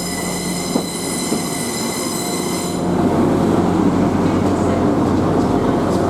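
Class 175 diesel multiple unit pulling into the platform. A high-pitched wheel squeal rings for the first three seconds, then cuts off suddenly, and the train's low rumble grows louder.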